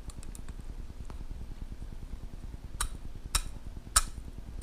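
Three sharp knocks on a bowl in the second half, about half a second apart, as ramen noodles are pushed down into the water, with a few faint ticks before them and a steady low hum throughout.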